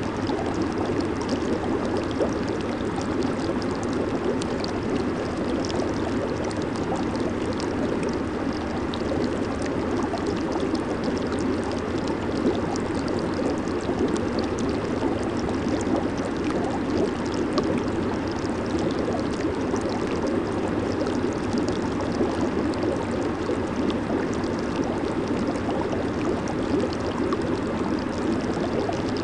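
Hot tub jets running, a steady churning and bubbling of water with a fine fizzing crackle over it.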